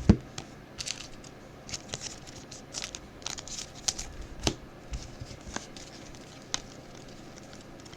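Trading cards and their pack wrapper being handled: scattered crinkling and rustling with light clicks as cards are flipped, and a sharper knock right at the start.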